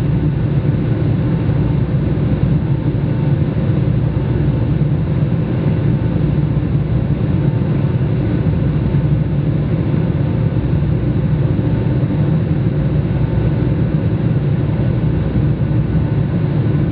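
Steady roar of the engines and airflow heard inside the cabin of a Boeing 757-200 in flight, deep and unchanging throughout.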